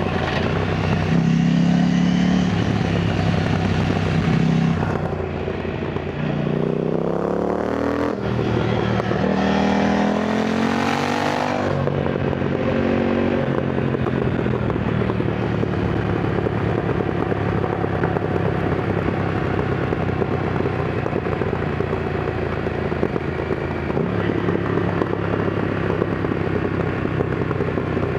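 KTM Duke 990 twin-cylinder engine, heard from the rider's helmet camera, revving up through the gears: the revs climb twice in quick succession with a gear change between, then fall away sharply. After that the engine runs at steady revs under wind noise.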